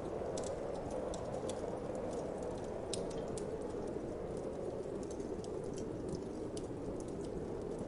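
Wood fire crackling in a fireplace, with irregular sharp pops and snaps several times a second, over a steady low whoosh of winter wind.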